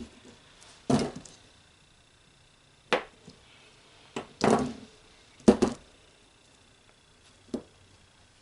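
A blade trimming soap dough against a hard work surface: about six sharp, irregularly spaced chops and taps, a few with a short scrape after.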